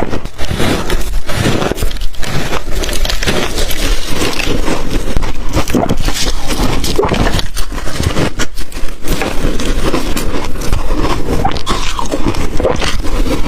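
Loud, continuous crunching of ice being bitten and chewed, the ice dusted with matcha and milk powder, in a dense irregular stream of crackly bites.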